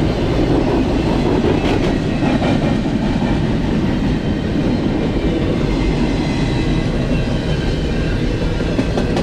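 BNSF double-stack intermodal freight train rolling past fast: a loud, steady rumble of cars and wheels on the rails.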